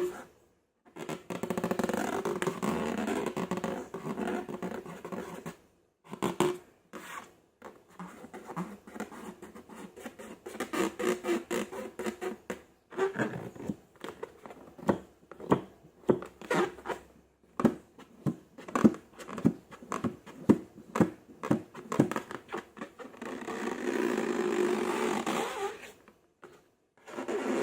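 Slime squelching and squishing, with runs of many small, sharp, irregular pops and crackles of air pockets bursting in the middle, between stretches of steadier squishing.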